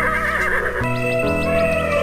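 A horse whinny sound effect over cartoon background music with a steady bass line. The trembling whinny ends about a second in, and a long held musical note follows.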